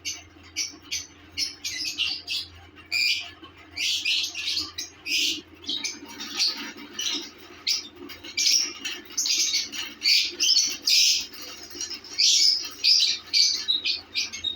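Lovebirds chattering: a dense run of short, high-pitched chirps and squawks, many coming in quick succession and overlapping, over a faint steady low hum.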